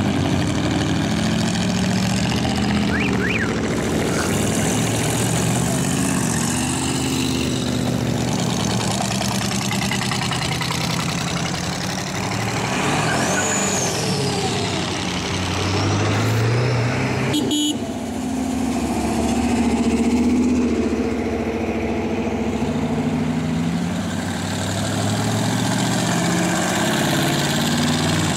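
Rat rods, hot-rodded old cars and pickups, passing one after another with their engines running, the engine note shifting as each goes by.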